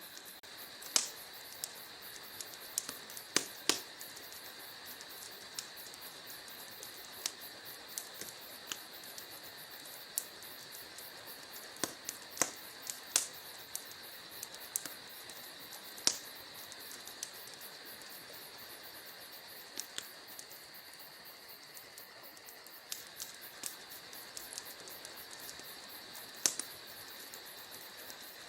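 Wood fire crackling in a fireplace, with irregular sharp pops at uneven intervals, several of them loud. Underneath runs a steady high-pitched background sound.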